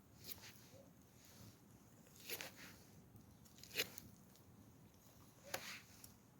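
Four short, separate handling noises about a second and a half apart, the third the loudest, over a quiet background.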